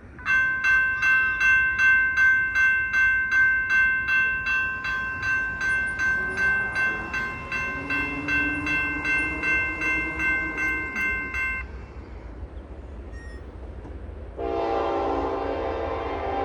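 Railroad crossing warning bell ringing at about two strikes a second, stopping about twelve seconds in. Near the end a diesel locomotive's air horn starts one long blast.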